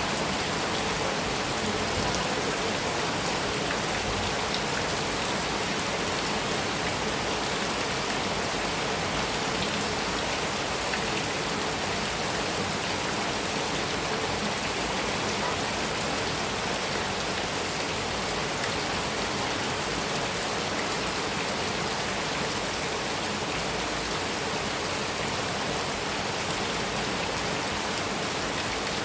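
Heavy rain falling steadily on a metal roof, a dense even patter with no change.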